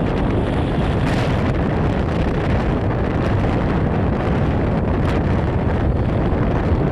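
Strong wind of a sandstorm buffeting the microphone: a loud, steady rumbling roar with brief stronger gusts about a second in and again about five seconds in.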